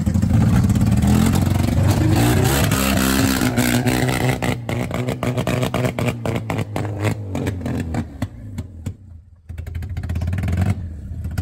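Wrecked Pontiac's engine being kept running on ether. It revs high for a few seconds, then sputters and pops irregularly as the revs fall, surges briefly once more, and cuts out suddenly near the end.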